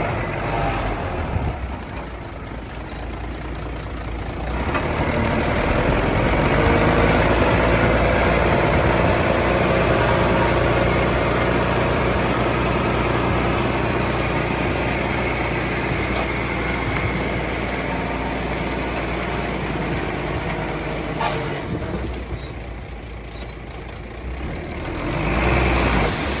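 Heavy diesel engine of earthmoving equipment, idling at first, then about four seconds in revving up and running hard under load for some fifteen seconds before dropping back. It rises again near the end.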